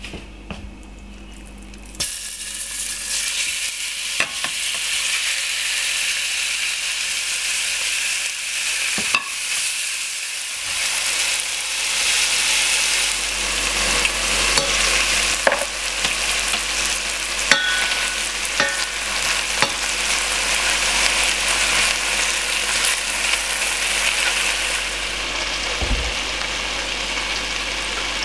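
Food frying in hot oil in a stainless steel pan: a dense, steady sizzle that starts suddenly about two seconds in, with a few sharp clicks along the way.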